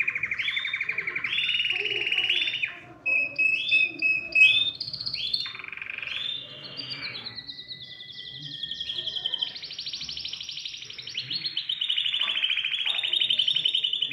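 Domestic canary singing: rapid trills and repeated rising notes in quick phrases, each phrase changing every second or two.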